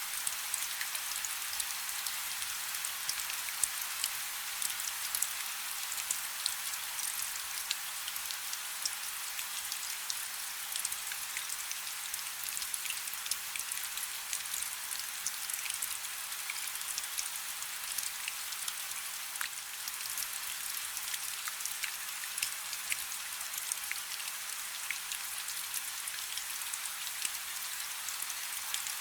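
Light rain falling steadily: a soft hiss with many small drop ticks.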